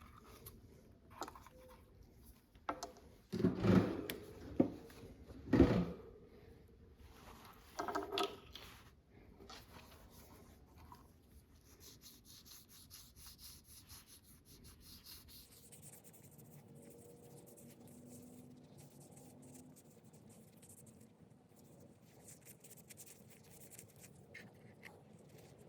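A few loud knocks of a tool or part being handled, then a long run of light scratching and rubbing from hand work on the awl.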